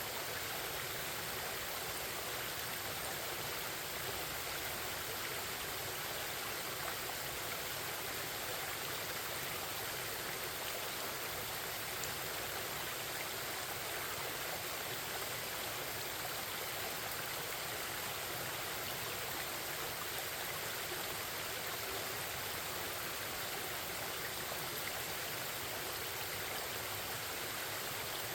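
Forest stream flowing, a steady babble of running water.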